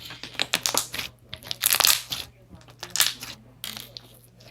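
Slime being squeezed and pressed by hand, giving crackly popping and crunching noises in uneven bursts, loudest about a second and a half in.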